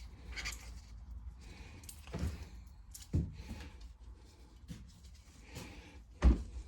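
Scattered knocks and clicks of a carburetor and tools being handled on a work surface, a few seconds apart, the loudest one near the end.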